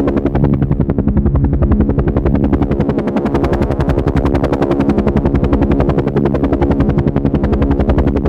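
Helicopter flying, its rotor blades chopping at a rapid, even beat over a steady engine hum.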